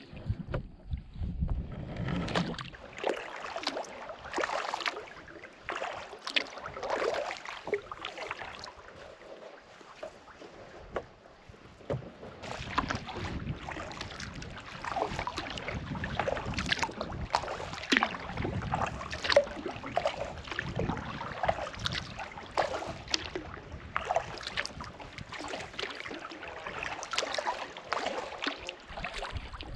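Kayak paddle blades dipping and splashing in the water, stroke after stroke.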